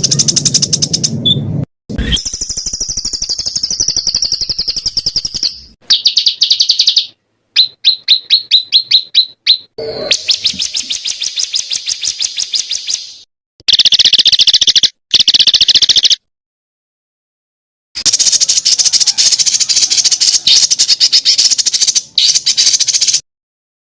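Songbird song played for bird training: a rapid, high-pitched string of chattering trills, whistled glides and repeated notes, spliced into segments that start and stop abruptly, with a short silent gap past the middle.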